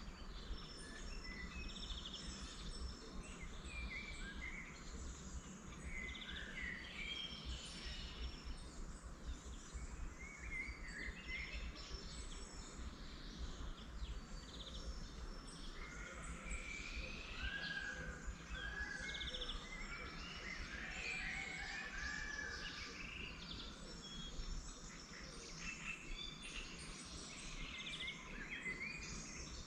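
A chorus of wild songbirds: several birds singing and calling at once, short chirps, trills and whistled phrases overlapping, busiest in the second half. A steady low rumble runs underneath.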